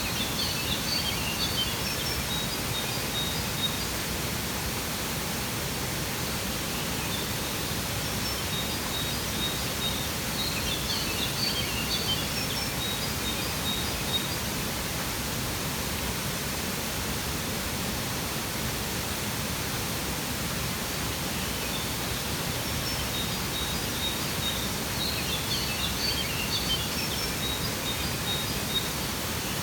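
Waterfall with a steady rush of falling water, with birds chirping in three short spells of quick high notes: at the start, around a third of the way in, and again near the end.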